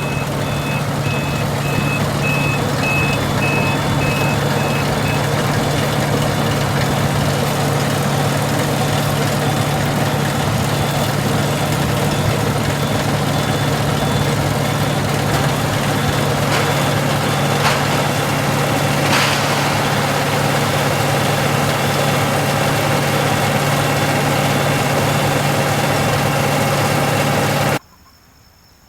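Tractor engine running steadily at idle, with a rapid, evenly repeating electronic warning beep; a few sharp clicks come in the middle. The sound starts and stops abruptly.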